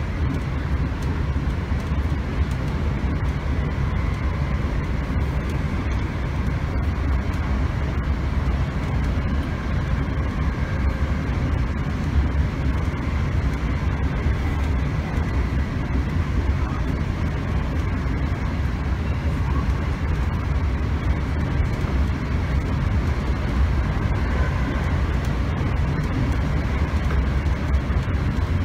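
Steady running rumble of a Class 321 electric multiple unit heard from inside the carriage as it travels between stations, with faint steady tones over it.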